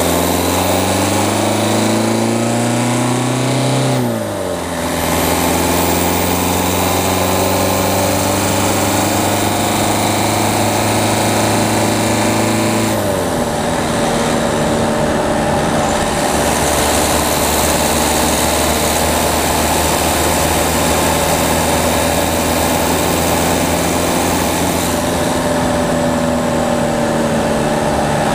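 Peugeot 208's diesel engine, heard from a camera mounted on the front of the car, pulling hard with its pitch rising. It drops abruptly at upshifts about four and thirteen seconds in, then runs fairly steadily, with road and wind noise throughout.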